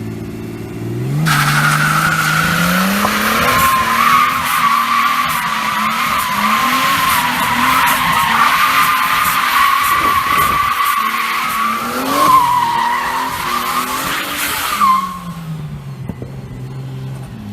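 A car's engine revving while its tyres squeal hard and continuously under power. The squeal starts about a second in, wavers in pitch, and cuts out near the end as the engine note falls away.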